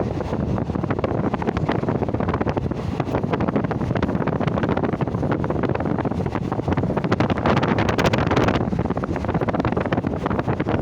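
Wind buffeting the microphone over the steady running noise of a moving train, with a dense clatter of rattles throughout.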